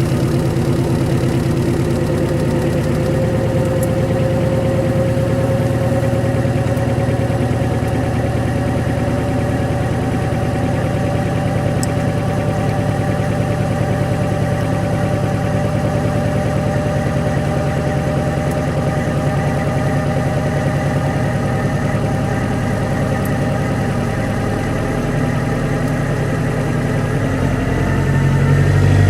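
1991 Honda Civic's original D15 single-cam four-cylinder engine idling steadily shortly after a cold start at −25 °C, with a whining tone that rises slowly in pitch. Near the end the low rumble changes and grows a little louder.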